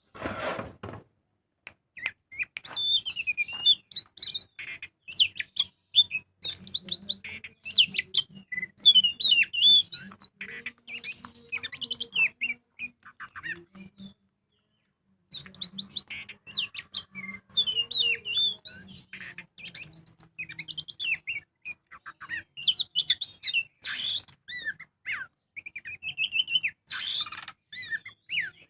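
Oriental magpie-robin singing a fast, varied song of chirps and whistles, breaking off for about a second midway before going on.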